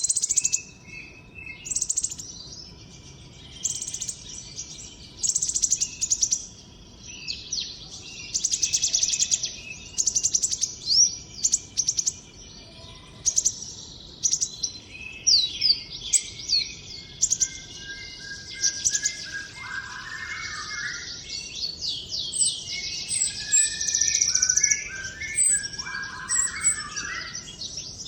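A konin songbird singing non-stop in rapid, repeated high-pitched chirping phrases. Later in the song come quick sweeping whistles and lower stepped notes.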